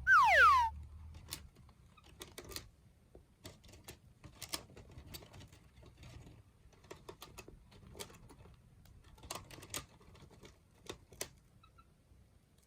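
Cockatiels gnawing a wooden basket with their beaks: irregular crisp clicks and small cracks of wood, coming in clusters. It opens with a loud falling whistle-like tone lasting under a second.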